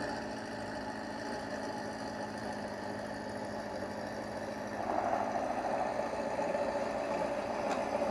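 Ferrari engine idling sound, a steady hum that gets louder about five seconds in.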